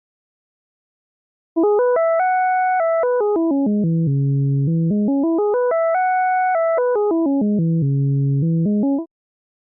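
Synthesized tone whose pitch climbs and falls in coarse, even steps like a staircase, rising and falling twice over about seven seconds: a bitcrushed waveform played as sound. It starts after a second and a half of silence and stops shortly before the end.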